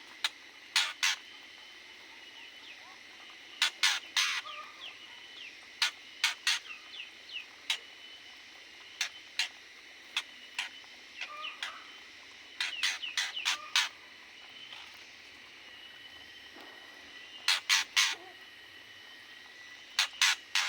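Aviary birds giving short, sharp calls in quick clusters of two to five, with small chirps in between, over a steady faint high hum.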